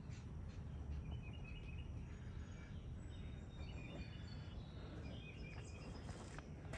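Outdoor background with faint bird chirps, short high notes repeated in little clusters, over a steady low rumble.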